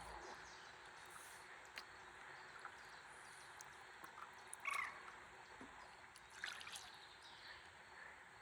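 Faint, gentle river water trickling and lapping, with scattered small clicks and one short high chirp a little after halfway.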